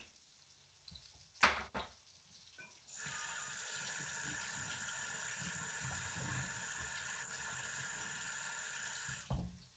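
Kitchen tap running into the sink for about six seconds, turned on and off abruptly, after a single sharp knock a second or so in.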